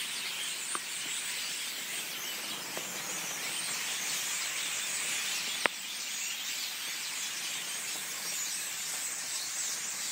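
A large flock of birds roosting in a bamboo stand at night, cheeping and chirping continuously in a dense, high racket. A few sharp clicks cut through, the loudest about halfway.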